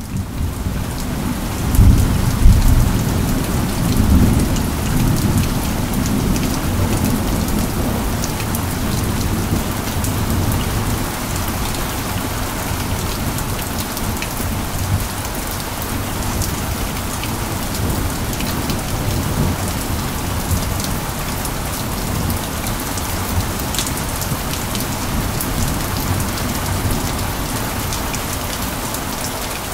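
Steady rain falling, with many small drop hits, and a deep rumble of thunder about two seconds in that dies away over the next few seconds.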